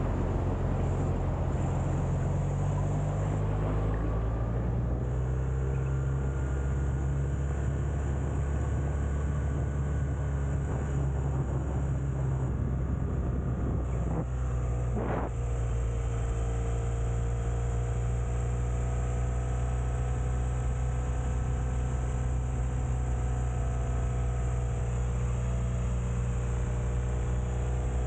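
Motorcycle engine running steadily under way, its pitch drifting slightly up and down as the revs change, over continuous wind and road noise.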